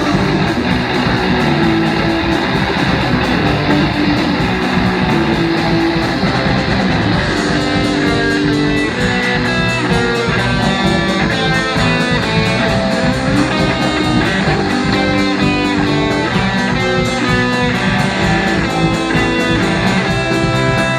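Live rock band playing a guitar-led passage with no singing, the electric guitar picking out distinct lead notes from about a third of the way in.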